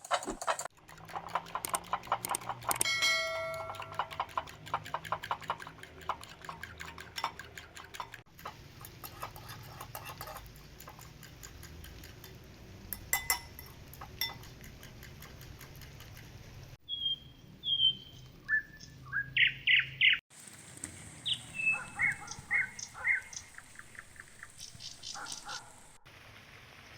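Short bird chirps and calls, several in quick succession in the second half, with a dense run of clicks and crackles in the first part.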